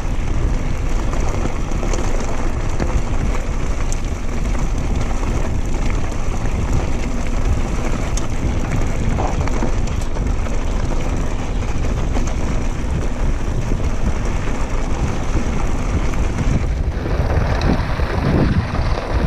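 Steady rushing noise of a mountain bike ride: wind on the microphone mixed with tyres rolling over a dirt trail. The noise changes character about seventeen seconds in.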